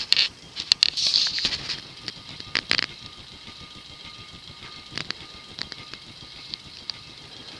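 Modern Fan Co. Industry ceiling fan with a GE stack motor running at medium speed, with balloon strings caught inside rubbing and ticking against it. A rustling hiss with clicks for about the first two seconds, then a faint steady tone with scattered ticks.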